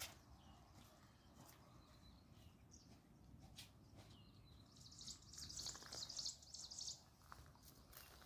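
Faint outdoor ambience with scattered small bird chirps and a few light clicks. About halfway through comes a high, rapid trill lasting a couple of seconds, the loudest sound here.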